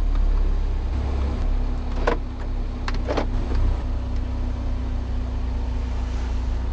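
The 2013 Mini Cooper S Paceman's turbocharged 1.6-litre four-cylinder engine idles with a steady low hum, heard from inside the cabin. Two short clicks come about a second apart, two and three seconds in.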